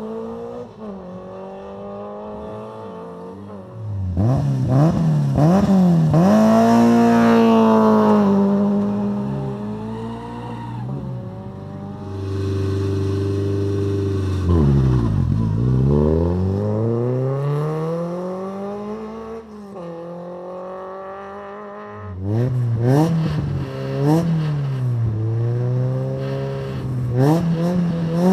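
Rally car engines revving hard at the start, the pitch swinging up and down with throttle blips, and one long climb as a car accelerates away. Quick revs are broken by sharp cracks near the end.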